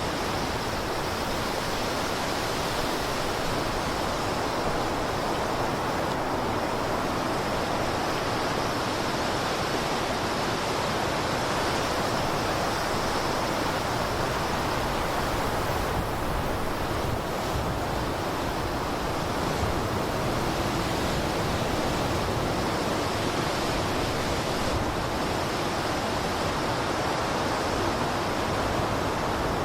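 Blizzard wind blowing steadily: an even rushing hiss with no distinct gusts or breaks.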